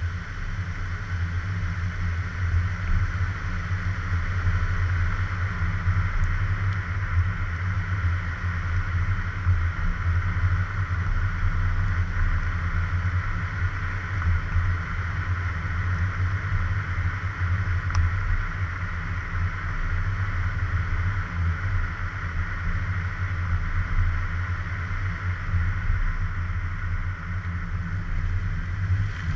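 Car driving along: a steady low rumble of engine and road noise, picked up by an action camera on a suction-cup mount on the car.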